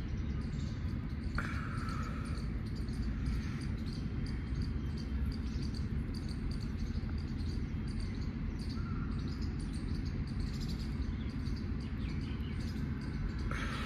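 Outdoor ambience: a steady low rumble with faint insect chirping and a couple of short, faint bird calls.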